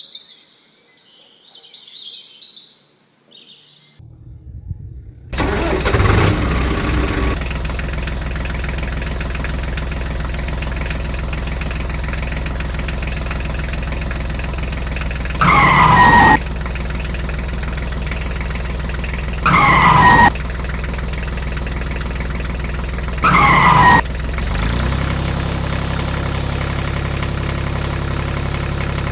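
Toy tractor's electronic sound effects: a loud engine-start sound, then a steady engine running sound. Three short loud sounds falling in pitch come about four seconds apart, and the engine settles to a lower idle near the end. Birds chirp briefly before the engine starts.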